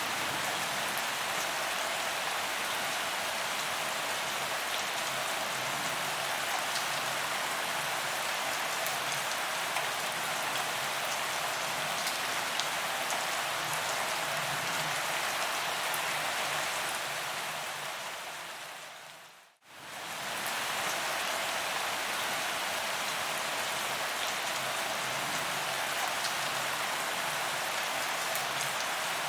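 Steady rain falling on a paved promenade, a dense even patter of drops on the ground. About two-thirds of the way through, the sound fades smoothly to silence and fades back in within about a second.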